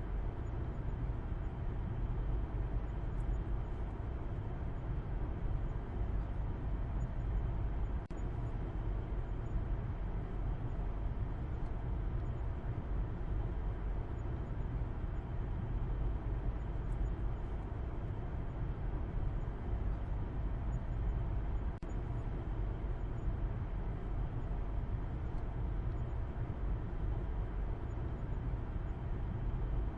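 Steady low rumble of a car driving: continuous road and engine noise with no change in pace.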